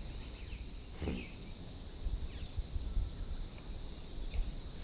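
Insects chirring steadily in a high, even drone, over a low rumble. A brief faint vocal sound comes about a second in.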